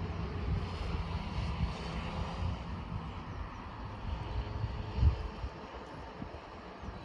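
Train running: a steady, distant mechanical rumble with a faint hum, while wind gusts buffet the microphone, strongest about five seconds in.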